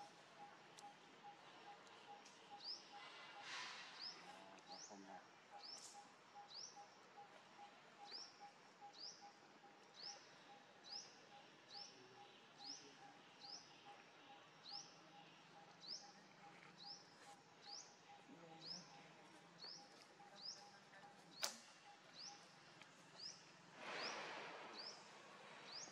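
Faint bird calling: a short, high chirp repeated steadily, about three every two seconds.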